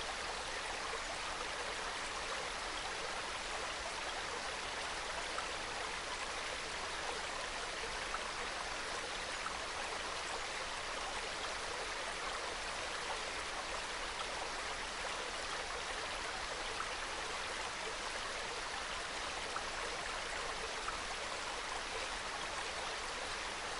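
Small mountain stream trickling and babbling over rocks, a steady soft burble.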